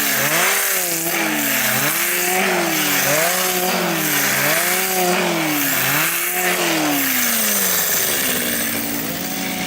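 Two-stroke chainsaw driving a planer-head attachment that strips bark from a pine log: the engine pitch sags and recovers every second or so as the cutter bites, over a hiss of shaved wood. Near the end the engine settles to a lower, steady speed.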